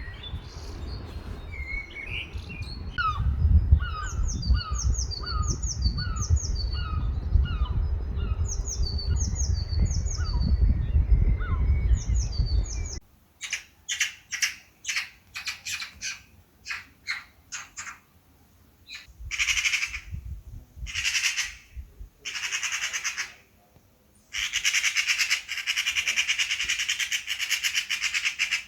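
Birds calling. A series of about a dozen ringing calls, repeated at an even pace over a low wind rumble, changes about halfway through to harsh chattering squawks: quick runs of short rasps, then longer rattling bursts.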